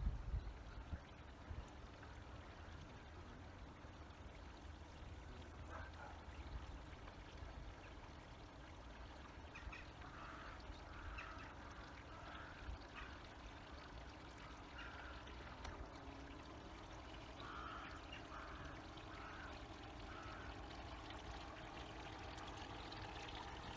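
Faint outdoor water and wind ambience: a low rumble with light water sounds. A few short calls sound between about 10 and 20 seconds in. A faint motor hum grows louder near the end, fitting a small electric RC boat approaching on its way back.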